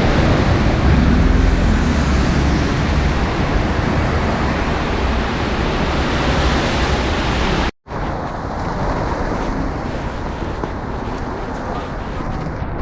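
Wind rumbling and buffeting on the microphone over a steady outdoor roar. It cuts out for a moment nearly eight seconds in, then resumes a little duller.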